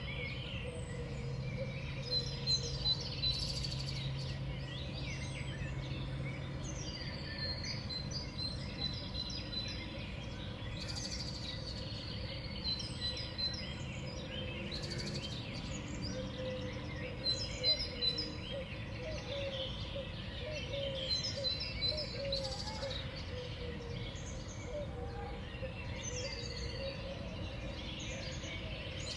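Small songbirds at a feeder chirping and calling, many short calls overlapping throughout, with a few runs of repeated high notes. A faint low hum sits under the first several seconds.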